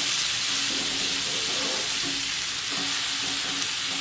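Cauliflower and potato pieces sizzling steadily in hot oil in a kadai while a metal spatula stirs and turns them.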